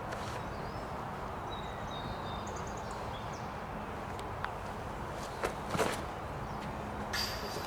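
Outdoor ambience: a steady background hiss with a faint hum. Small birds chirp thinly in the first half, and a few sharp clicks or knocks come about five to six seconds in.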